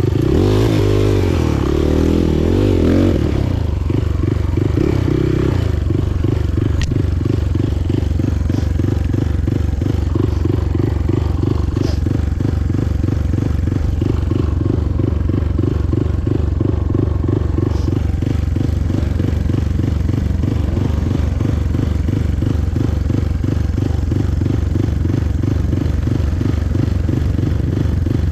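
Motorcycle engine running while riding, its pitch rising and falling in the first few seconds as the throttle changes, then holding a steady, even beat.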